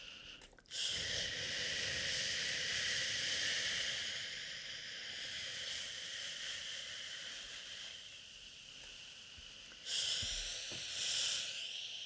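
A person shushing "shhhh" in long steady breaths, meant to soothe a crying baby. It breaks off briefly about half a second in, runs on for about nine seconds, then starts again louder near the end.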